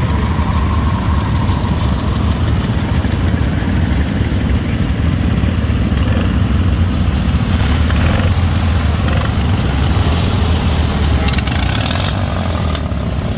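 Small garden tractor engine running steadily at idle.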